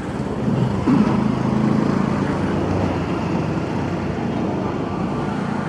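An engine running steadily with a low hum under a continuous rush of travel noise, swelling slightly about half a second in.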